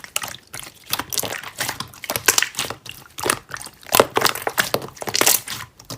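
Irregular rustling and crinkling noises, a string of short scrapes and crackles with no steady rhythm.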